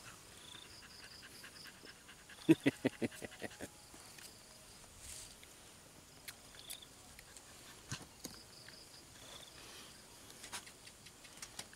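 A quick run of about eight short, clipped animal calls, about two and a half seconds in, with scattered faint clicks before and after.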